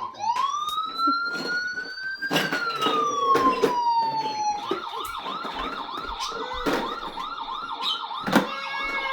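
Electronic police siren of a children's ride-on police car: one slow wail that rises, peaks about two seconds in and falls away, then switches to a fast repeating yelp of about three chirps a second. A few sharp clicks and knocks sound over it.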